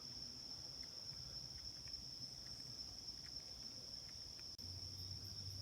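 Insects trilling in one steady high-pitched drone, with a faint low hum joining near the end.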